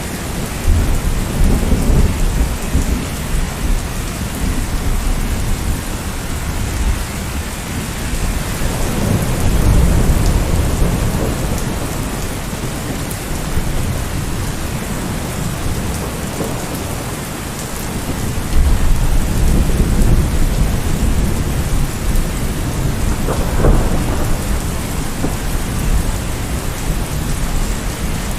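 Steady heavy rain, with low thunder rumbles that swell and fade several times.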